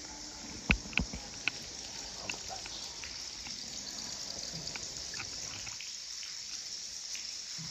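Water trickling and dripping, with scattered small plinks over a steady high hiss. A few sharp knocks come about a second in.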